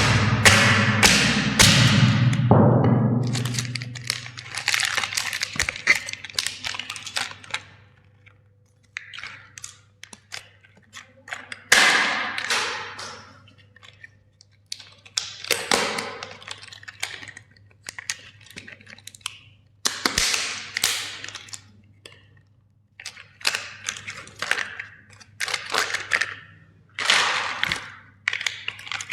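A toy being crushed: a heavy thud at the start, then repeated bursts of plastic cracking and crunching.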